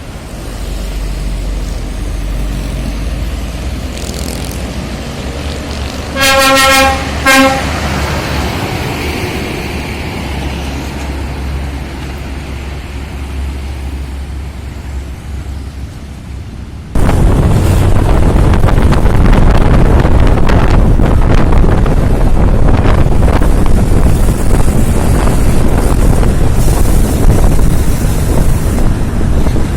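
Heavy truck's engine running low, with a horn giving a long blast about six seconds in and a short toot straight after. About halfway through, a loud, dense rushing noise cuts in suddenly and drowns everything else.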